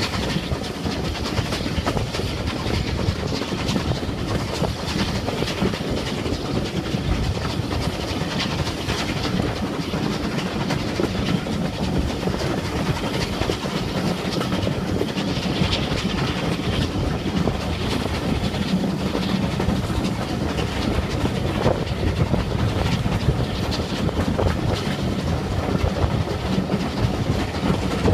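Railway train running along the track: steady wheel-on-rail noise with the clicking of rail joints, unchanging throughout.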